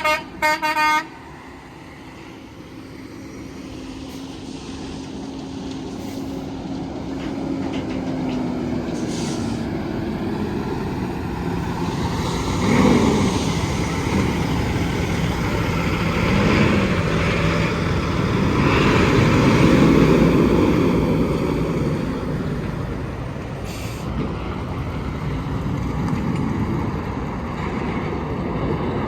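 A tractor-trailer's air horn sounds in two short blasts, then heavy trucks and traffic pass one after another, the tyre and engine noise swelling and fading, loudest about 13 and 20 seconds in.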